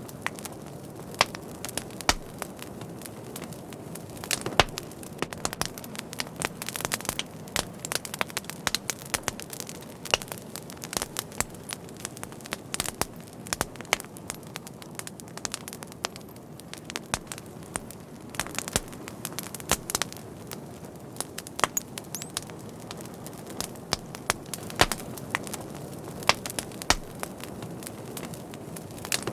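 Wood fire crackling: frequent sharp, irregular pops and snaps over a steady low rushing of flame.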